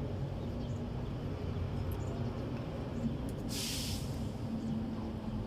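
A steady low rumble like a running engine, with a short hiss lasting about half a second around three and a half seconds in.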